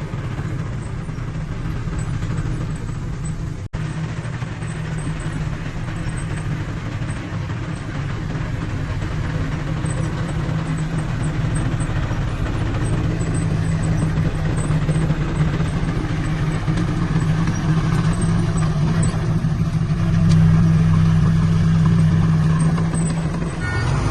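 Diesel engine of heavy earthmoving machinery running steadily with a low drone, cutting out for an instant about four seconds in and growing louder toward the end.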